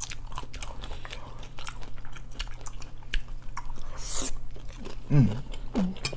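Close-miked chewing and crunching of Flamin' Hot Doritos nachos, with a brief hiss about four seconds in and a couple of short vocal sounds near the end.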